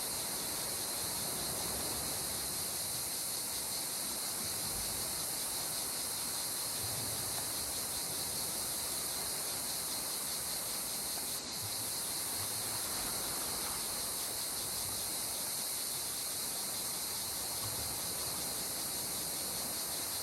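Insects chirring steadily in a high, even drone over a soft hiss of gentle sea water.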